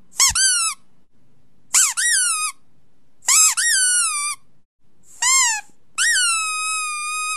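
Five high-pitched squeaks in a row, each rising quickly in pitch and then falling. The last one is drawn out and sinks slowly. It is a sound played to set off a dog's reaction.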